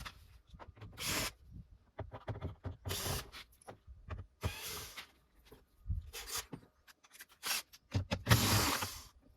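Screws and bolts being undone from a Lada Vesta door's inner trim: scattered clicks and clatter of tools, with several short bursts of tool noise, the loudest near the end.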